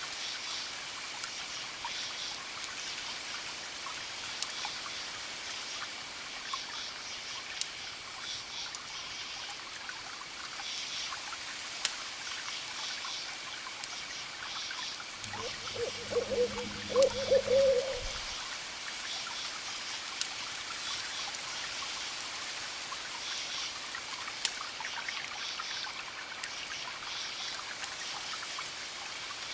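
Campfire crackling with scattered sharp pops, over crickets chirping in steady pulsing trills and a soft wash of distant waves. About halfway through, a short low call stands out for a couple of seconds.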